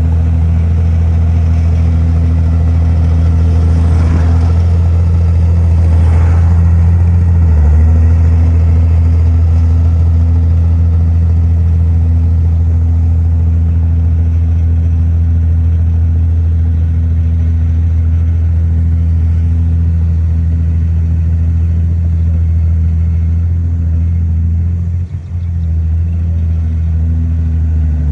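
A heavy diesel engine of earthmoving machinery runs steadily under load. Its pitch shifts a little past seven seconds in and again near the end, with faint clatter early on.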